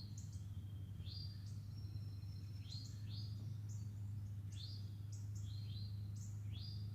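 Songbirds chirping: short, quick rising chirps, several overlapping and repeating about every half second to a second, over a steady low hum.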